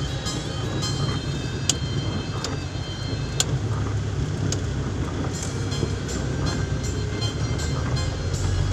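Heavy rain with a steady low rumble underneath and a few scattered sharp ticks.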